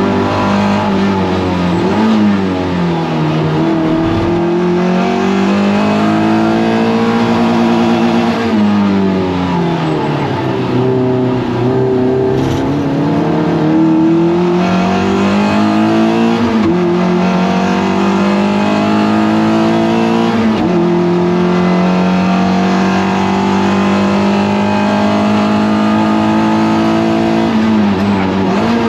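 Toyota MR2 race car engine at racing speed, its pitch climbing and falling with gearchanges and braking, with a long stretch held steady at high revs and a sharp drop off the throttle near the end.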